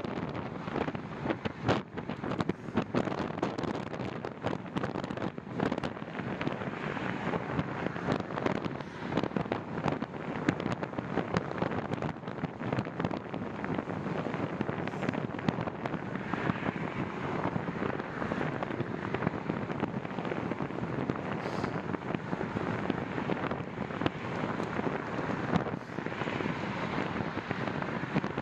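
Wind buffeting the microphone during a bicycle ride: a continuous rushing noise broken by frequent sharp crackles and pops.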